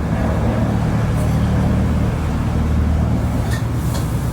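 A motor vehicle's engine running steadily, a loud low rumble, with a few short sharp clicks near the end.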